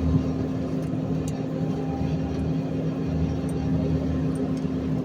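Garbage truck engine running steadily with a constant low hum.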